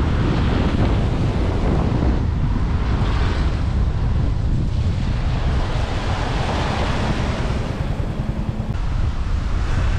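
Heavy rain falling in a steady hiss, with wind buffeting the microphone in a low rumble. A faint steady hum joins in for about two seconds past the middle.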